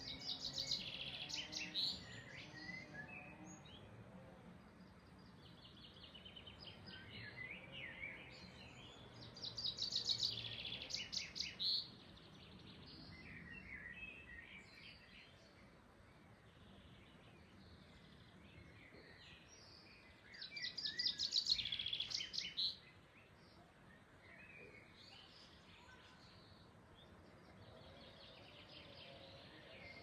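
Songbirds singing over a faint steady outdoor background: three louder phrases of fast repeated high notes, near the start, about ten seconds in and about twenty seconds in, with softer chirps between.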